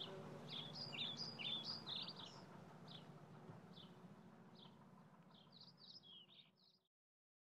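Faint bird chirps over a faint low hum. There is a quick run of short calls in the first couple of seconds, then scattered single chirps, then another short run near the end. Then the sound cuts off to complete silence.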